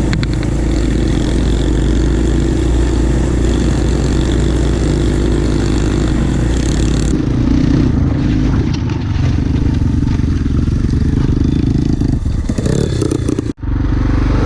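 Small dirt bike engine running steadily while riding. The sound changes about halfway through, and it breaks off abruptly for an instant near the end.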